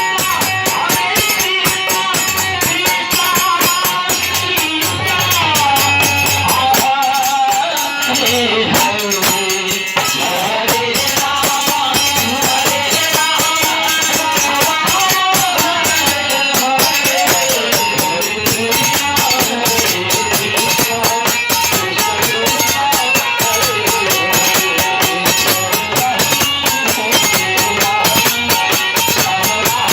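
Hindu devotional kirtan: singing carries a wavering melody over fast, steady jingling hand percussion.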